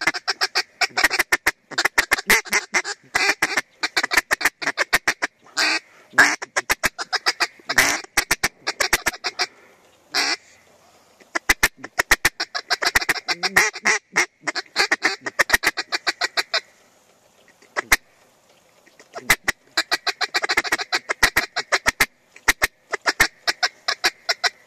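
Duck quacking in long runs of rapid chatter, with two brief lulls, one about ten seconds in and one past the middle.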